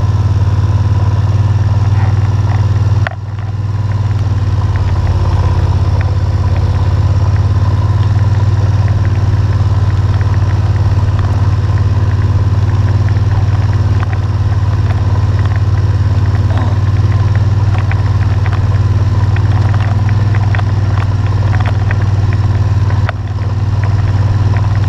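ATV engine running steadily, loud and close, its pitch barely changing, dipping briefly about three seconds in and again near the end. Light clicks and rattles run through it.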